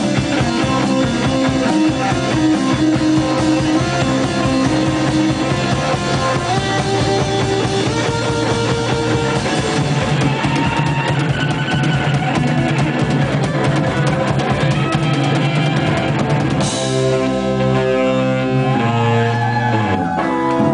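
Rock band playing live on drums, electric guitar and bass, with fast drumming. About three-quarters of the way through the drumming stops on a cymbal crash and the band lets chords ring, with sliding guitar notes, as the song ends.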